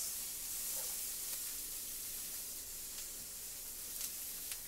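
Asparagus spears sizzling steadily in a hot frying pan, with a couple of faint ticks near the end.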